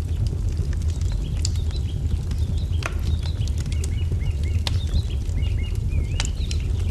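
Wood fire crackling over a steady low rumble, with sharp pops, three of them loudest. Through the second half a small bird chirps over and over in quick high notes.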